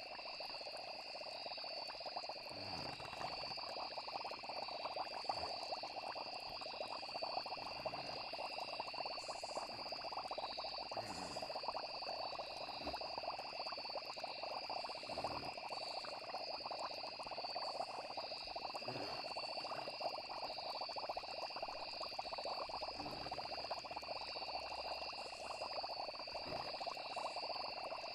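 A steady night chorus of frogs, with insects trilling continuously. A few short, low sounds occur every few seconds.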